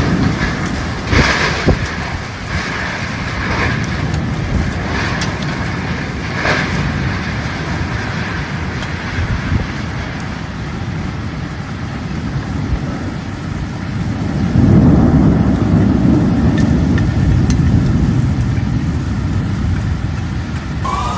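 Heavy rain and strong wind in a storm: a steady, dense wash of noise with a few sharp hits early on and a deeper rumbling swell about two-thirds of the way through. A wailing siren starts up right at the end.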